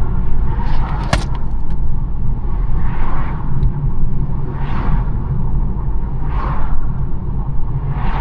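BMW 1 Series driving along a country road: a steady low rumble of tyres and engine, with a whooshing swell about every one and a half to two seconds. A quick cluster of sharp ticks comes about a second in.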